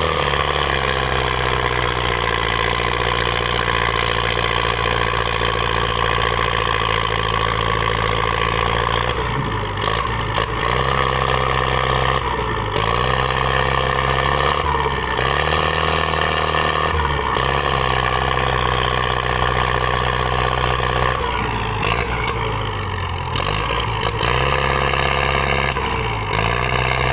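Tractor diesel engine running hard, its pitch dipping and recovering again and again as if under heavy load.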